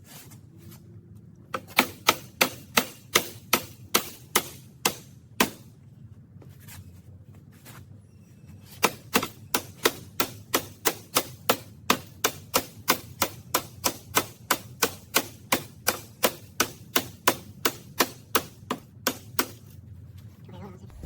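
Sharp clicks repeated evenly, about three a second, in two runs with a short pause between them, as work goes on at the trike's axle shaft.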